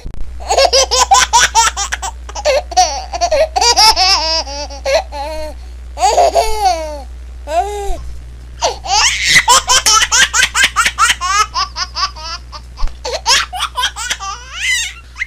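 Baby laughing in quick runs of high-pitched giggles, with a few drawn-out squealing laughs that glide up and down about six to seven seconds in, and a short break before another long fit of giggling.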